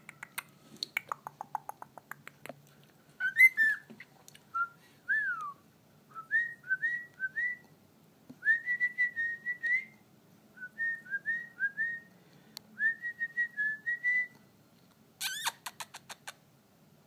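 Cockatiel whistling a tune in short, repeated rising notes, after a rapid run of clicks at the start, and ending with one harsh, buzzy call near the end.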